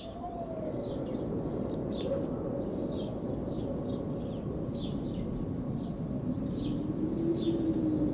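A small songbird chirping over and over, about two or three short high chirps a second. Underneath are a steady low rumble and a faint tone that slowly wavers up and down.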